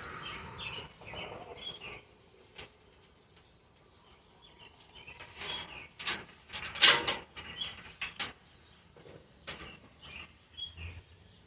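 Small birds chirping in the background, with scattered clicks and rustles of work handling; the loudest clicks come about six to seven seconds in, after a quiet stretch.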